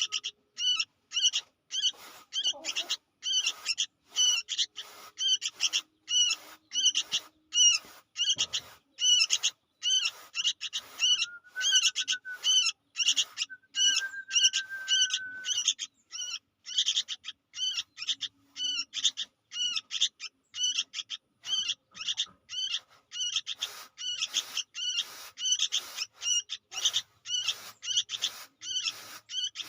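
Sooty-headed bulbul chick calling over and over in short, high, rapid notes, about two or three a second, without a break. Midway it holds two longer, steady whistled notes.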